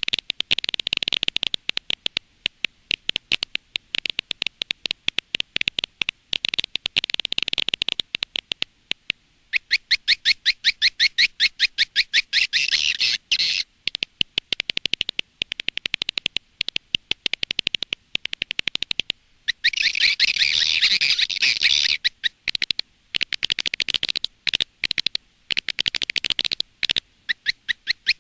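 Swiftlet lure recording: rapid, dense chirping and twittering of edible-nest swiftlets, coming in runs broken by short pauses. This is the call played outside a swiftlet house to draw the birds in to nest.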